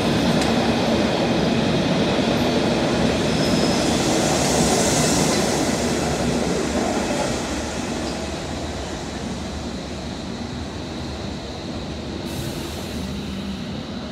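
London Underground S8 stock train running past the platform: a loud rumble of wheels on rail with a faint steady high whine, dying down after about seven seconds to a quieter hum.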